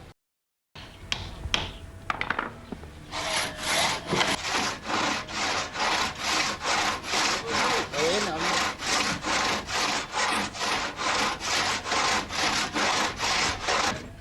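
Large hand crosscut saw cutting through a log in steady, rhythmic strokes, about three a second, starting about three seconds in after a few wooden knocks.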